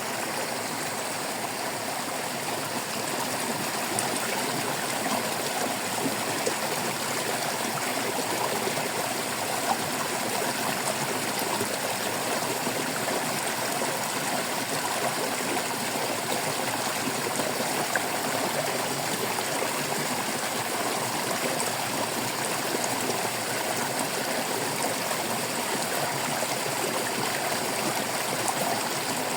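Shallow stream babbling and trickling over stones, a steady, even rush of water.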